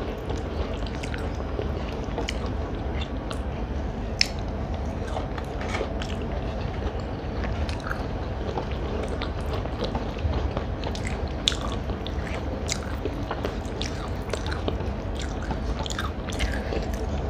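Close-up eating sounds: a person chewing food, with many small irregular mouth clicks and light crunches. A steady low hum runs underneath.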